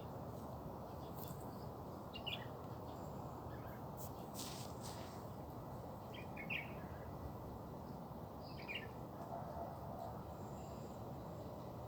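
Birds chirping in short bursts, three times, over a steady low background rumble.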